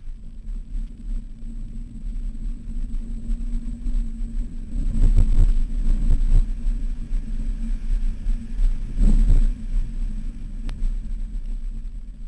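Off-road vehicle engine running steadily with a low drone, swelling louder twice: around five to six seconds in and again about nine seconds in.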